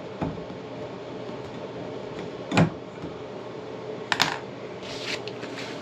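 A few sharp clicks and knocks of plumbing fittings and tools being handled, the loudest about two and a half seconds in and a short cluster near four seconds, over a steady low hum.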